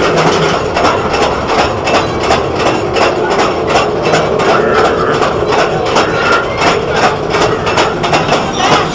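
Calico Mine Ride's mine-train cars rumbling along their track, with a steady clacking about three times a second.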